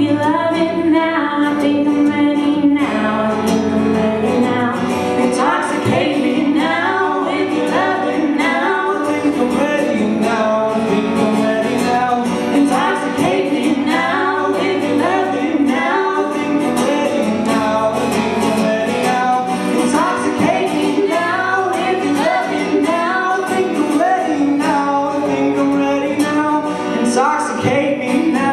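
Live singing of a pop song over guitar accompaniment, the voices carrying on without a break.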